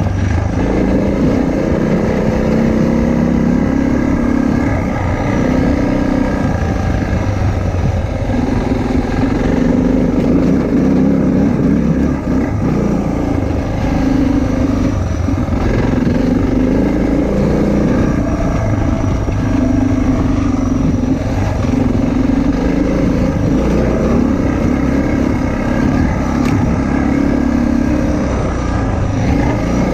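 Motorcycle engine running while riding, its pitch rising and falling repeatedly as the revs change.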